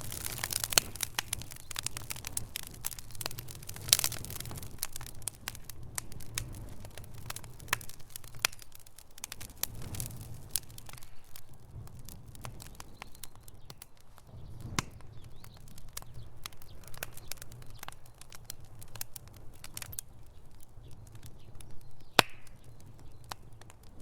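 Fire in a fireplace crackling, with irregular snaps and pops over a low steady rumble. The pops thin out after about ten seconds, and there is one sharp pop near the end.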